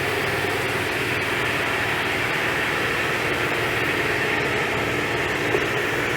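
Pressure washer running steadily: a constant motor-and-pump hum under the hiss of the water spray.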